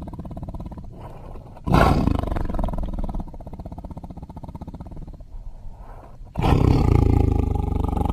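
Sound-effect dinosaur creature roars made from mixed giganotosaurus and lion roar recordings. A loud roar starts suddenly about two seconds in and fades, followed by a quieter rumbling stretch. A second, deeper roar begins abruptly near the end.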